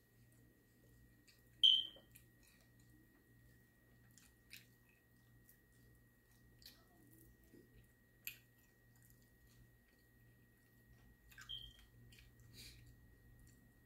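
Mouth sounds of eating chicken wings: chewing with scattered short wet clicks and lip smacks as the meat is pulled off the bones. A sharper smack about two seconds in is the loudest, with another near the end; a faint steady hum sits underneath.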